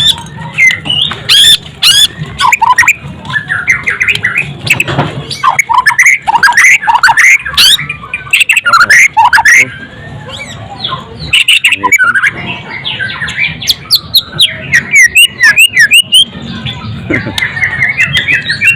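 White-rumped shama (murai batu) singing loudly: a fast, varied run of whistled notes mixed with sharp, harsh clicking calls, ending in a quick descending trill.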